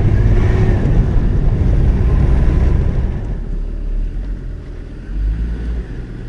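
Interior drive noise of a BMW 325tds: the 2.5-litre straight-six turbodiesel engine with road and tyre noise, heard with the windows open. It is a deep rumble that eases off after about three seconds as the car slows.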